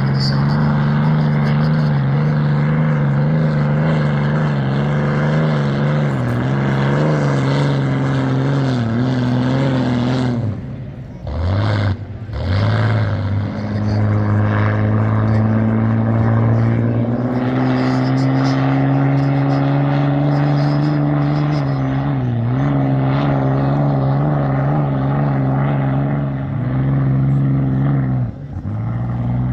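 27-litre Rolls-Royce Merlin V12 of a vintage unlimited hydroplane running loud and hard through straight exhaust pipes, its note wavering. The power drops off briefly twice around eleven to twelve seconds in, then the note climbs slowly as the engine pulls again.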